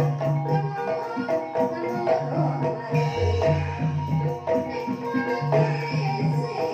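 Banyumasan gamelan ensemble playing a gending in the ebeg style: interlocking struck pitched notes over a steady rhythm, with a deep low stroke about three seconds in.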